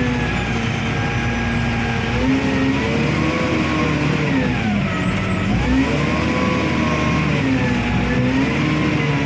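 Wheel loader's diesel engine working under load, its pitch rising and falling as it is revved up and eased off; the engine speed dips sharply about five seconds in and climbs back.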